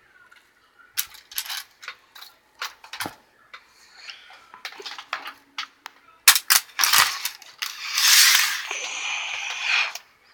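Small hard objects being picked up and set down by hand: a run of sharp clicks and knocks, then a louder rustle of about two seconds near the end.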